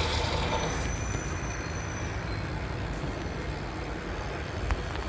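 Steady rumble of wind and tyre noise from a bicycle rolling along a street, fading slightly, with a single click near the end.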